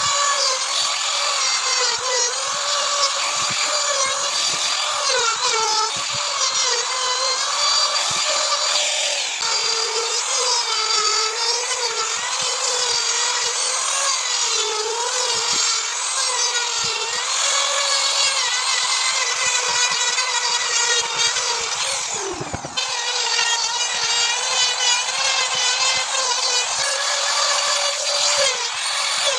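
Power tool running at high speed while cutting wood, its pitch wavering under load. About two-thirds of the way through, the speed briefly drops and then picks up again.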